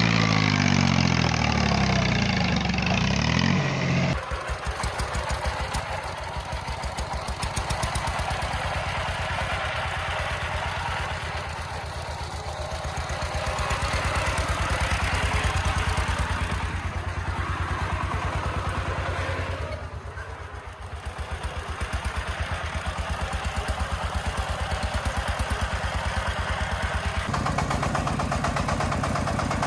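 Diesel engine of a two-wheel walking tractor (power tiller) running with a rapid, even chugging and some clatter. Its note bends up and down for the first few seconds, then settles into steady firing, easing off briefly twice.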